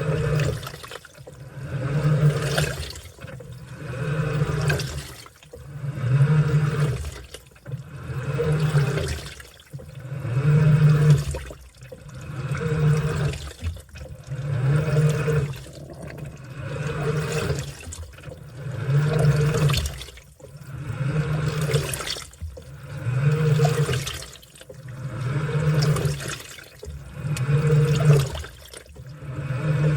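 Washing machine in its wash cycle: the drum or agitator turns back and forth with a hum and sloshing, churning water, one swell about every two seconds with brief lulls between.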